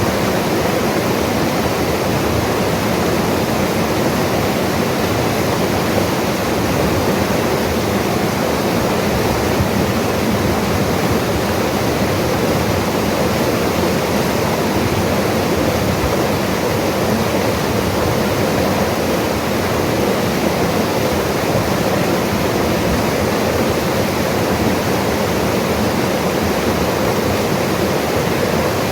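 Mountain river running steadily: a dense, even rush of water that does not change.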